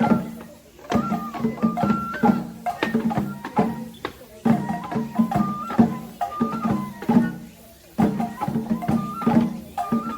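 Japanese festival music accompanying a shishimai lion dance: a high flute plays a melody of held notes stepping between pitches, over rhythmic drum strikes, in phrases with brief pauses between them.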